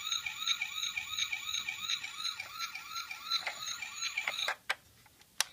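Toy police car's electronic siren sounding a fast repeating wail, about three or four sweeps a second, that stops about four and a half seconds in, followed by two short clicks.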